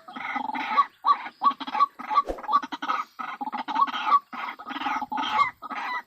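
White-breasted waterhen (ruak-ruak) calling: a continuous run of short, harsh, repeated croaking notes, about two to three a second.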